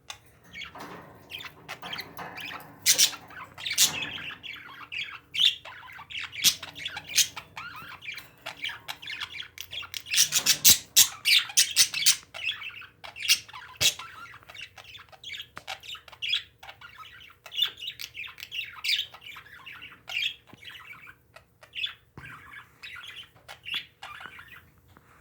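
Pet parakeets chattering and squawking: a dense, unbroken run of short chirps and clicks, busiest about ten to twelve seconds in.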